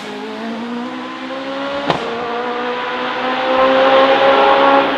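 Hillclimb racing car engine accelerating hard, its note rising steadily and getting louder, with one sharp crack about two seconds in.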